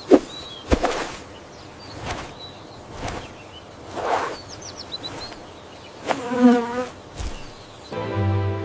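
Buzzing of a small flying insect in a cartoon sound-effect track, loudest about six and a half seconds in, with faint high chirps and a few short sharp sounds around it.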